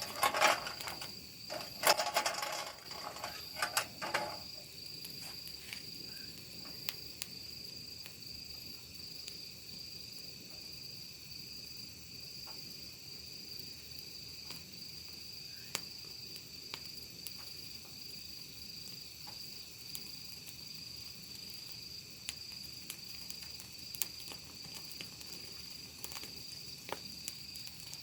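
Crickets chirring in a steady, high-pitched, fast-pulsing trill, with scattered sharp pops and crackles from a burning wood fire. A cluster of louder clicks and knocks comes in the first four seconds.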